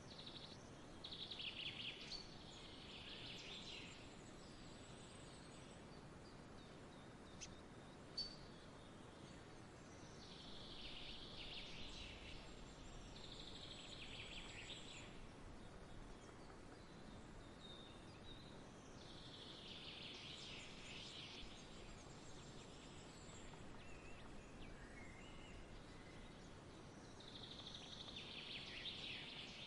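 Faint birdsong: songbirds singing in bright, chirpy bursts of two to four seconds every eight or nine seconds, over a steady faint outdoor hiss. A single sharp click sounds about eight seconds in.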